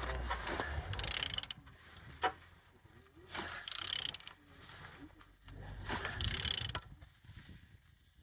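Mercedes OM646 four-cylinder diesel engine being turned over by hand with a wrench, in repeated strokes of just under a second, about every two and a half seconds. The engine turns freely with compression on all cylinders.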